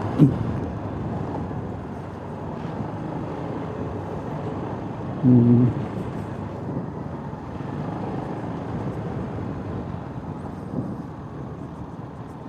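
Motorcycle riding along a road: steady engine, wind and road noise. About five seconds in there is a brief, loud, steady tone.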